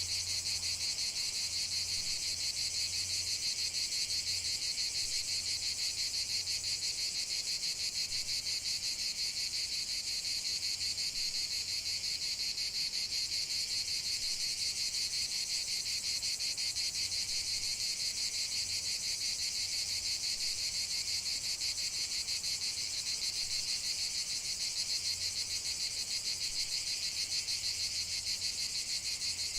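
Crickets chirping in a dense, unbroken chorus: a steady, high, rapidly pulsing trill. Underneath it a faint low pulsing fades in and out.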